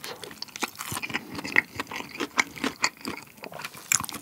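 Close-miked chewing of a rice ball coated with garlic breadcrumb seasoning and dipped in rosé tteokbokki sauce, a wet, sticky chew with many small crackles.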